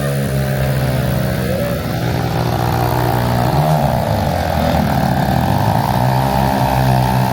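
A large engine running loudly and steadily, its pitch dipping and recovering about halfway through.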